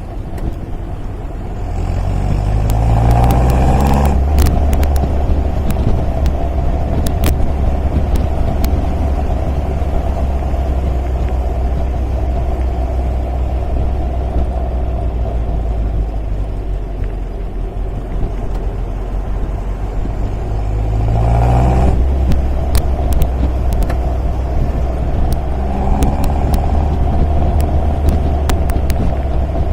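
MG MGA's four-cylinder engine running under way with a steady low drone, climbing in pitch as the car accelerates about two seconds in and again about twenty-one seconds in, with a smaller rise near the end.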